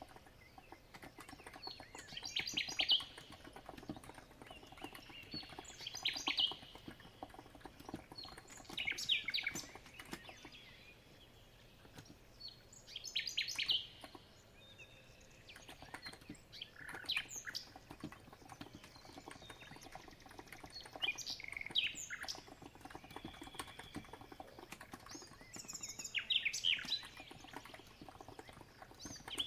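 A songbird sings short trilled phrases every few seconds over soft, steady typing on a COX Empress electro-capacitive keyboard.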